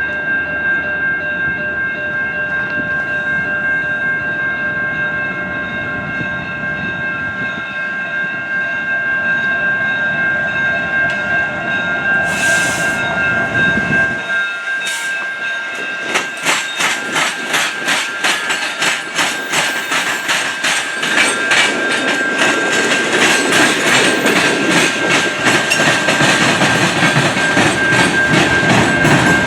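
Freight train passing. From about sixteen seconds in, its wheels click steadily over the rail joints, getting louder toward the end, with steady high ringing tones heard throughout.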